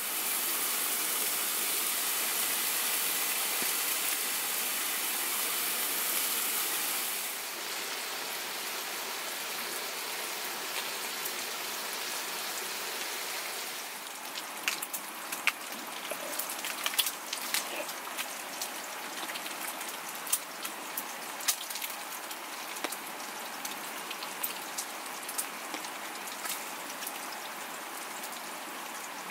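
Steady hiss of rain falling on the tent, louder for the first seven seconds or so, with scattered sharp taps and pops from about halfway on.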